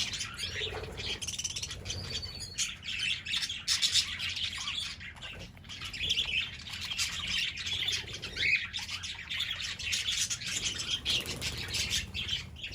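A flock of parrots chirping and chattering continuously, many short overlapping calls with the odd squawk.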